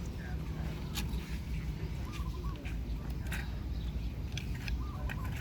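Short, scattered bird calls, clucking-like, over a steady low hum, with a few sharp clicks.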